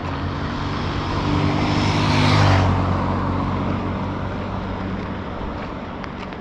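A motor vehicle passing close by with a low engine hum: it builds to its loudest about two and a half seconds in, then fades away.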